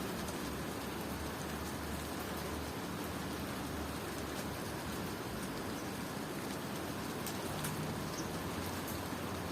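Steady rain falling on surfaces, a dense even patter with individual drops ticking, and a low hum underneath.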